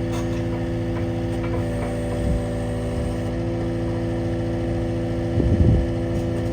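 Skid steer engine running steadily at a constant speed, with a short knock about five and a half seconds in.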